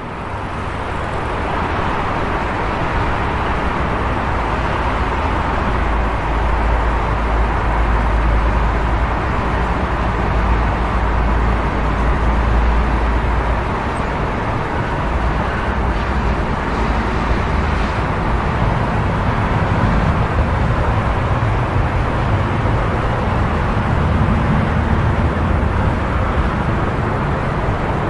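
Urban road traffic: a steady rumble of passing vehicles, with a heavier deep rumble from about six to fourteen seconds in.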